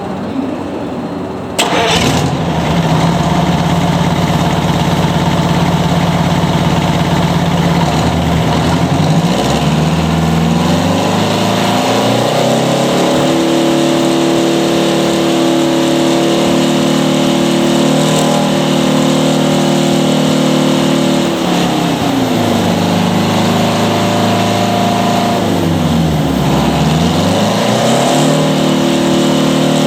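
Detroit Diesel 6V92TA, a turbocharged two-stroke V6 diesel, catching and starting about two seconds in, then idling. Around ten seconds in it is raised to a higher steady speed and held, then let back down; near the end its speed dips and comes back up.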